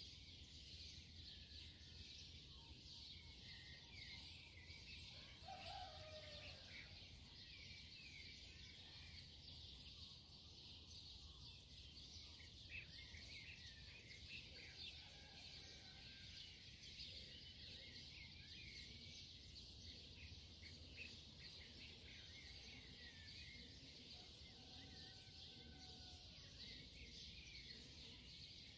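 Near silence: a faint steady hiss with many small birds chirping faintly in the background.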